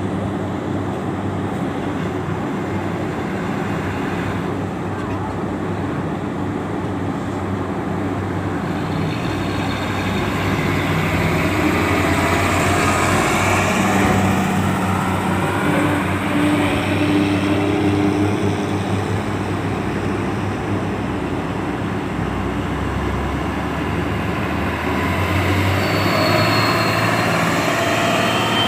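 Truck engines running and pulling away in a steady drone. It grows louder about a third of the way in, with engine pitch rising and falling as they rev.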